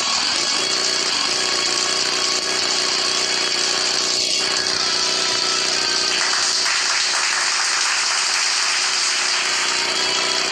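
Small motorcycle engine running steadily at high revs.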